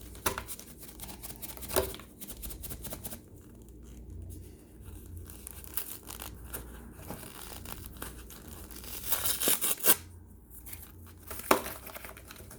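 Dry, brittle baked cornstarch being broken up and pried out of a bowl: a run of irregular cracks and crumbling crunches, with a cluster of sharper cracks about nine to ten seconds in.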